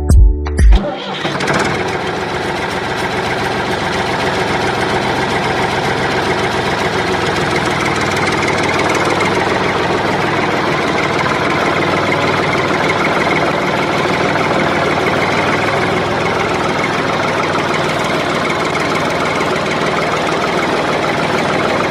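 A tractor engine running steadily, coming in abruptly about a second in.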